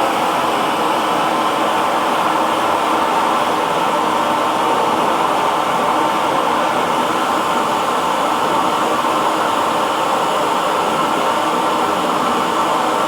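Hair dryer running steadily, a constant airy whoosh with a faint motor hum and no change in pitch or level.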